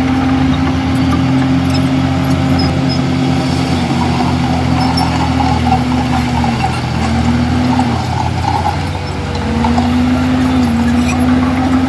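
Komatsu D51EX bulldozer's diesel engine running steadily under load, its pitch dropping briefly twice, about seven and nine seconds in, as the load changes.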